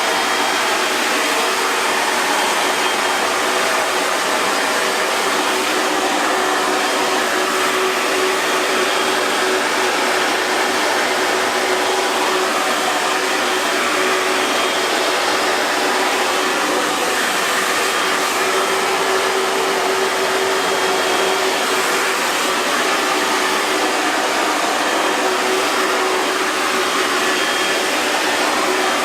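Hair dryer running continuously at a steady speed: an even rushing blow of air with a faint motor hum underneath.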